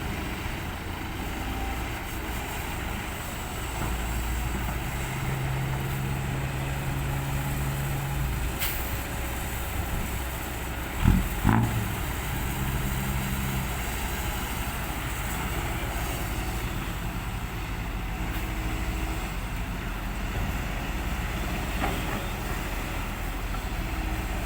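Excavator's diesel engine running under hydraulic load while scooping soil to load a ten-wheel dump truck, its note stepping up about four seconds in. Two heavy thuds come close together about eleven seconds in.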